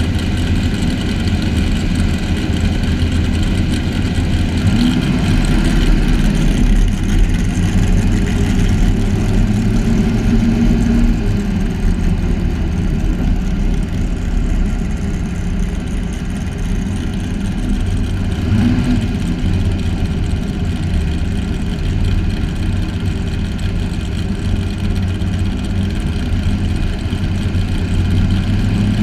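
Truck engine running loudly and steadily, with a few brief rises in pitch as the throttle is blipped.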